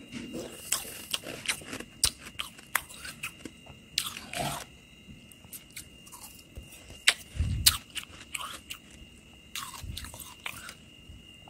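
Close-up chewing of slushy freezer frost: a run of wet, crackly crunches, with a couple of deeper thuds in the second half.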